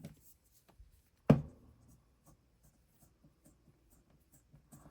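Hands handling a plastic electric lock-pick gun: one sharp knock about a second in, then faint scratching and a few small clicks near the end. The pick gun's motor is not running.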